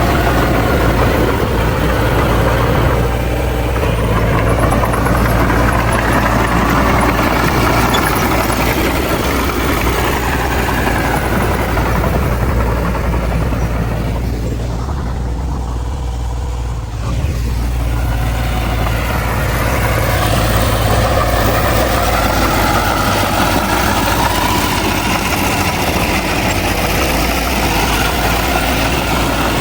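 Bulldozer's diesel engine running continuously, its pitch rising and falling as it works. It eases off for a few seconds past the middle, then picks up again.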